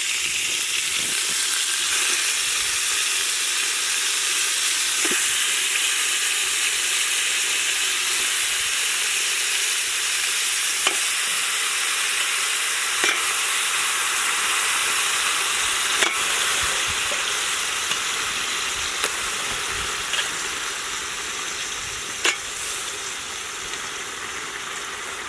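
Raw chicken pieces sizzling loudly in hot oil with fried onion, garlic and ginger paste, just added to the pan. A few clicks of stirring against the pan come through, and the sizzle eases slowly toward the end.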